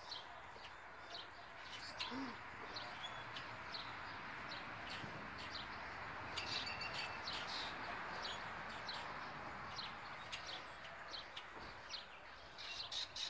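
Small birds chirping, many short high calls scattered throughout, over a steady background rush of outdoor noise.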